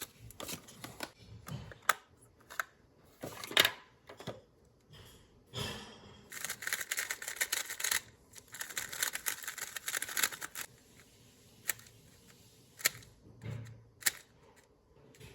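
Unboxing handling of a speedcube and its packaging: scattered sharp clicks and taps, with a stretch of dense crackly rustling from about six to ten and a half seconds in.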